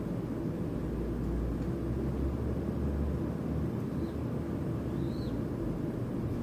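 Steady low background rumble with two faint, short bird chirps, one about four seconds in and a second, rising then falling, about a second later.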